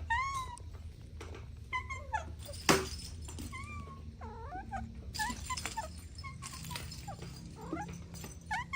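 Kittens mewing repeatedly, with many short high calls that bend up and down in pitch and sometimes overlap. A single sharp click comes about three seconds in.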